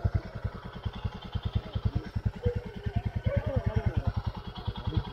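Royal Enfield Himalayan's 411 cc single-cylinder engine running at low revs, a steady beat of about ten exhaust thumps a second.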